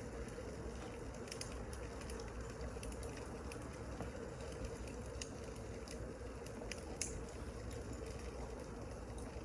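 Wood fire crackling: a steady hiss with scattered small pops and one louder pop about seven seconds in.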